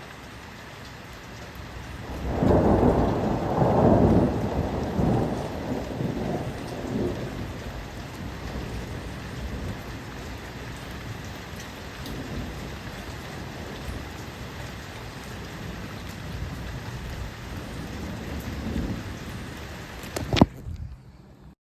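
Steady rain falling, with a loud rumble of thunder that starts about two seconds in and fades away over several seconds, and a weaker rumble later. Near the end there is a sharp click, and then the sound cuts off.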